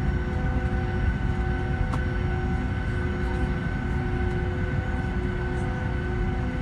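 Steady cabin noise inside a Boeing 757 with its engines running: a deep rumble with several steady whining engine tones over it.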